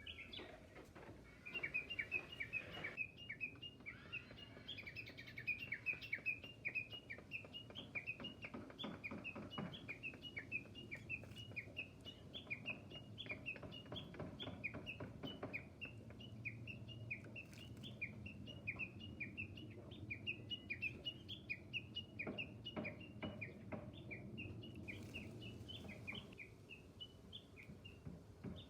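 A bird calling a long, steady run of short, repeated, downward-slurred chirps, about three a second.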